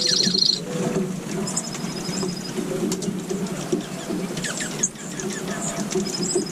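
Several small birds chirping, with short sweeping calls scattered throughout and a rapid high trill twice, over a dense, steady low chatter.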